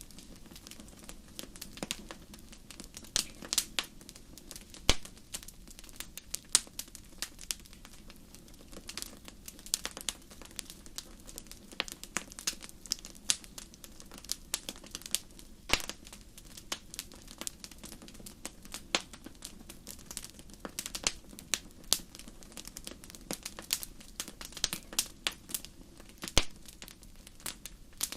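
Wood fire burning in a fireplace, crackling and popping with many irregular sharp snaps over a low steady hiss.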